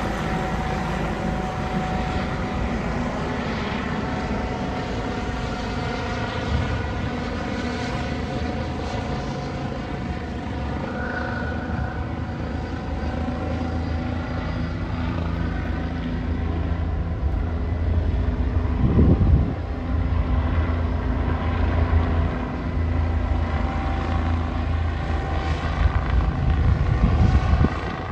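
Medical helicopter's rotor and turbine engine running steadily with a constant whine, over a deep rumble. The rumble swells in louder low surges about two-thirds of the way through and again near the end.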